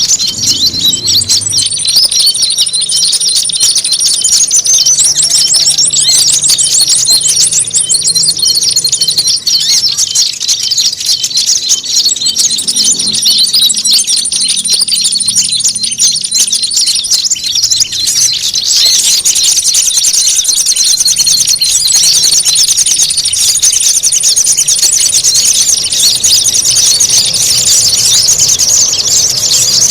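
Bird-lure recording of many small songbirds calling at once: rapid, high chirps and trills overlapping without a break, in the noisy, squabbling style used to draw small birds in. A thin, very high buzzing trill comes and goes in stretches of a few seconds.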